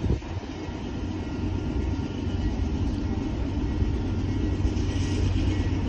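Low, steady rumble of approaching diesel freight locomotives, growing slowly louder.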